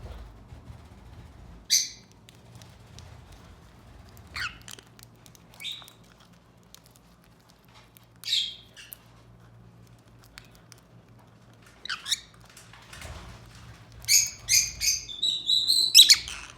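Pet parrots giving short, high squawks every few seconds, then a quick run of several chirps and squawks near the end.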